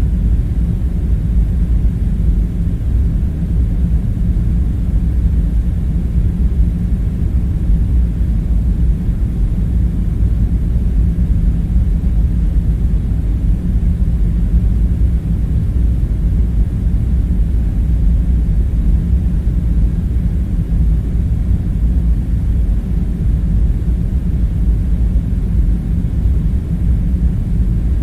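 Steady low rumbling background hum, even throughout with no distinct events.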